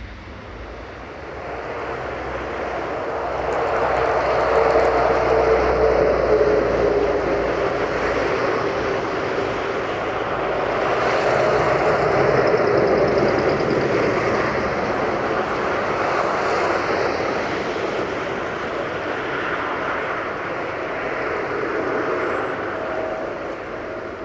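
A train running, a steady rumble that swells over the first few seconds and then holds, with a faint drawn-out tone that sinks slightly in pitch.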